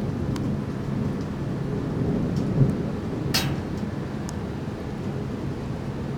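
Thunder rumbling low and continuously over falling rain, with a brief sharp crack or tap about three and a half seconds in.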